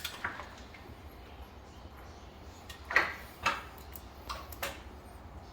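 A few light knocks and clicks spread through a quiet stretch, the two loudest close together about three seconds in.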